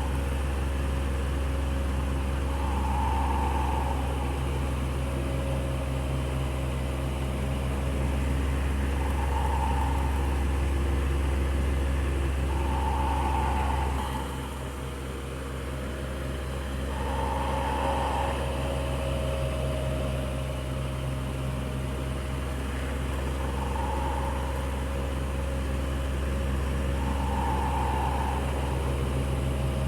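Electric fan running steadily with a low motor hum and airy whir, with a short higher swell every few seconds. The loudness dips briefly about halfway through.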